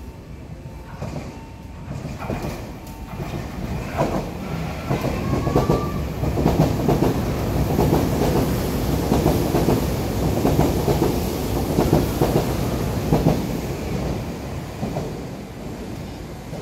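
Tobu Spacia X (N100 series) train running through the station without stopping, wheels clacking over the rail joints. The sound builds over the first few seconds, is loudest in the middle as the cars pass, and fades near the end.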